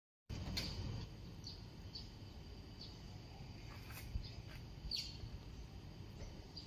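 Small birds chirping in short, high calls every second or so, one sliding down in pitch about five seconds in, over a low steady rumble.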